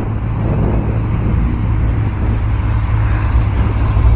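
Chevrolet 409 big-block V8 idling with a deep, steady rumble.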